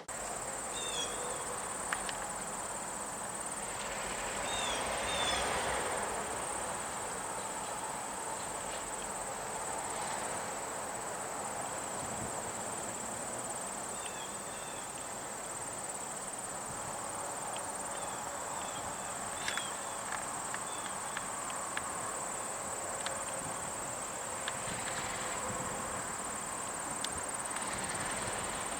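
Steady high-pitched trilling of insects in the background, with a few short chirps scattered through it.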